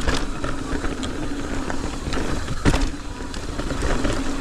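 Mountain bike rolling fast over a rough, rocky trail: tyre noise and bike rattle, with a faint steady hum, and two sharp knocks from impacts, one at the very start and one just under three seconds in.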